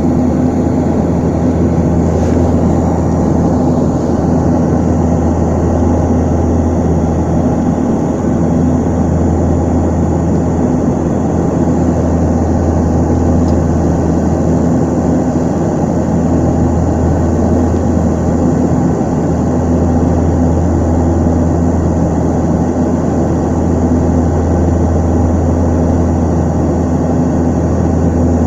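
Antonov An-24's twin turboprop engines and propellers droning steadily, a deep hum with a few low, level tones over a broad rushing noise that holds unchanged.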